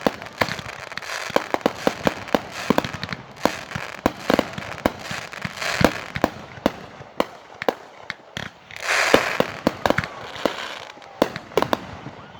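Fireworks going off: a rapid, irregular run of sharp pops and bangs over a continuous crackling hiss, with a louder hissing swell about nine seconds in.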